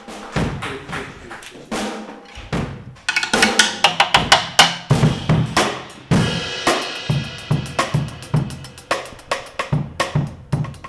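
Music led by a drum kit, with bass drum and snare hits in a steady beat. The playing gets busier and louder about three seconds in, and a cymbal-like wash joins from about six seconds.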